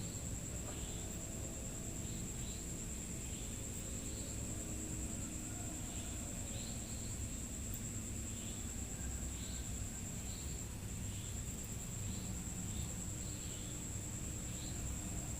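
Night insects, crickets, keeping up a steady high-pitched trill, with short chirps repeating irregularly over a low background rumble.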